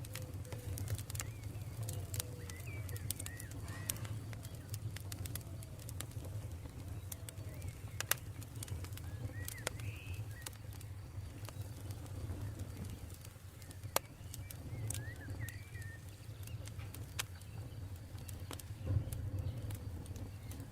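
Campfire crackling, with scattered sharp pops over a steady low rumble, and birds calling in the background with short chirps and lower cooing calls.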